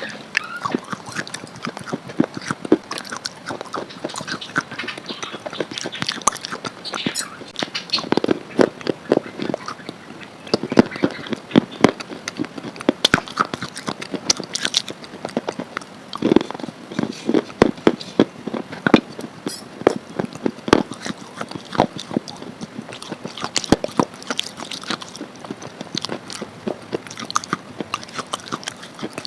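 A person chewing and eating a soft paste, heard close up: a steady run of irregular mouth clicks and smacks.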